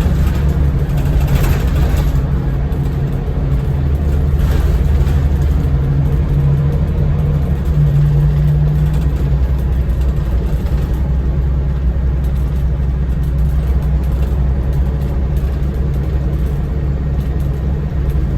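Scania L94UB bus engine running steadily as the bus drives, with small shifts in engine pitch.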